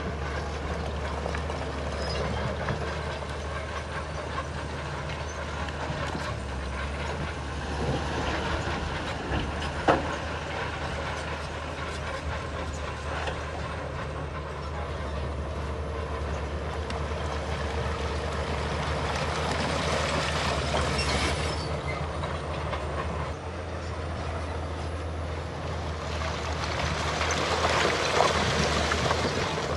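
Bulldozer at work: its diesel engine runs steadily under a continuous metallic clanking and rattling. There is a sharp knock about ten seconds in, and the clatter grows louder near the end.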